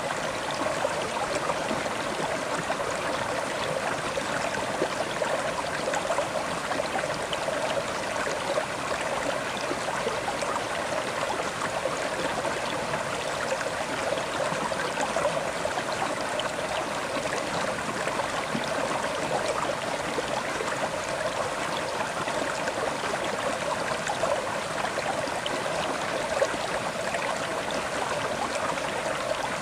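A river's water flowing steadily over stones, an even rushing with fine gurgling and splashing detail.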